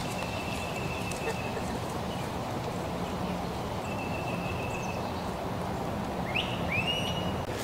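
Outdoor ambience of steady background noise, with a thin high tone twice, and near the end a bird giving two short rising calls.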